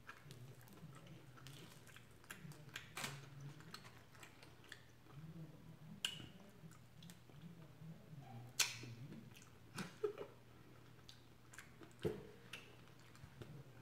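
Faint close-up chewing and mouth sounds of a person eating, with a few sharp clicks and crunches scattered through it.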